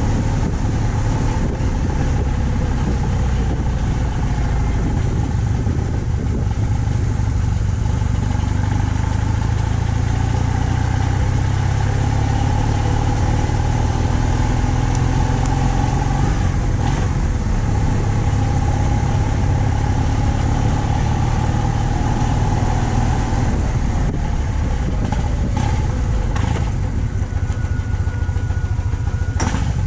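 BMW R 1200 C motorcycle's boxer twin engine running steadily at cruising speed, with road and wind noise. The engine note becomes more uneven in the last few seconds.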